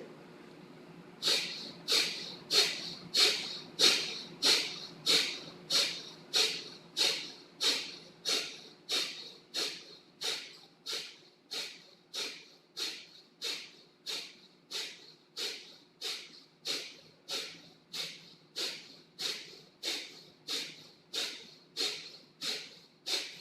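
Kapalabhati (skull shining breath): about three dozen short, sharp exhales forced out through the nose, evenly paced at a little over one and a half a second, with silent passive inhales between them.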